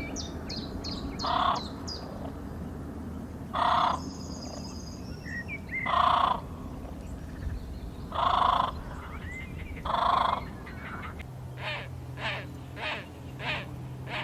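A crow cawing: five loud, harsh caws about two seconds apart, then a quicker run of shorter calls, about two a second, near the end. Small birds chirp faintly in between.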